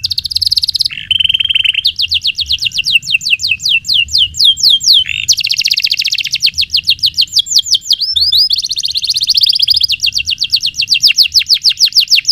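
Domestic canary singing long rolling trills: rapid runs of repeated falling notes, about seven a second, that speed up into a denser trill partway through, with a short buzzy phrase at the start.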